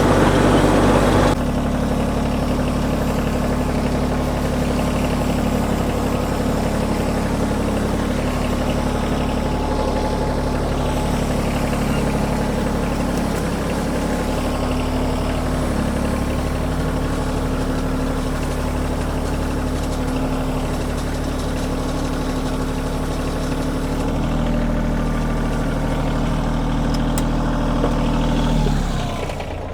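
Kioti tractor's diesel engine running steadily under load while towing a gravel-driveway drag, then its pitch drops as it is throttled down near the end.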